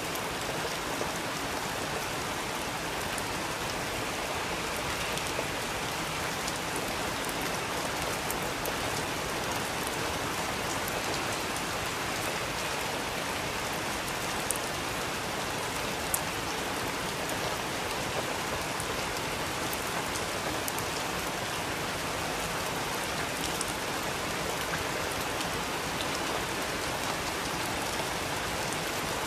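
Steady rain falling and pattering on a surface, an even hiss with scattered individual drops ticking.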